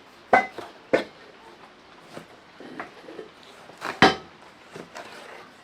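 A few sharp, irregular knocks and clicks, as of hard objects striking each other, the loudest about a third of a second in, at about one second and near four seconds.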